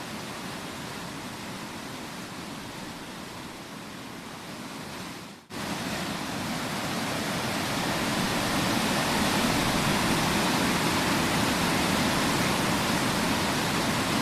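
Wide waterfall's falling water rushing steadily. It cuts out for an instant about five and a half seconds in and comes back louder.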